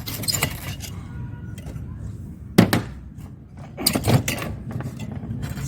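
Metal parts of a disassembled microwave magnetron being handled and set down: a sharp knock about two and a half seconds in, the loudest sound, then a few more knocks and clinks around four seconds, over a steady low background noise.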